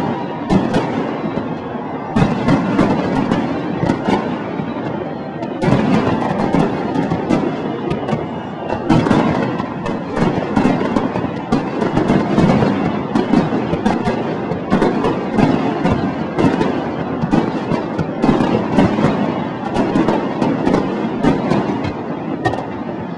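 Aerial fireworks bursting in a dense, rapid series of bangs and crackles, several every second.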